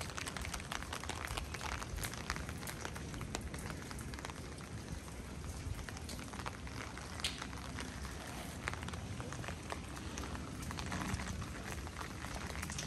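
Rain falling on wet stone paving and shallow floodwater: a steady hiss thick with small, irregular drop ticks.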